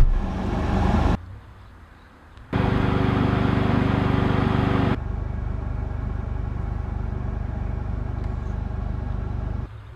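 Smart City Coupe engine and road noise as the small car drives, in short edited cuts: a steady engine hum from about two and a half seconds in, changing to a noisier steady sound at about five seconds, with quieter gaps about a second in and near the end.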